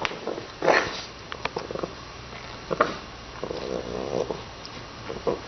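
A pet animal making a series of short vocal and snuffling sounds, with a few sharp clicks between them.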